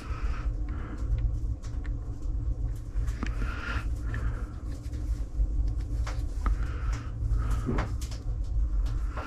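Scattered light clicks and knocks of small parts being handled and fitted, over a steady low hum.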